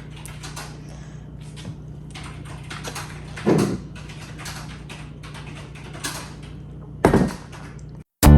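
Faint clicks and light knocks of small objects being handled, with two louder thuds about three and a half and seven seconds in, over a steady low hum.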